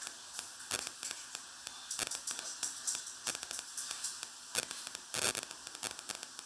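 Food frying in a pan: an irregular crackle of small pops over a soft sizzling hiss.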